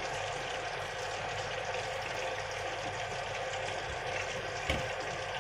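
Breaded chicken legs frying in oil on a low flame: a steady sizzle, with a single knock near the end.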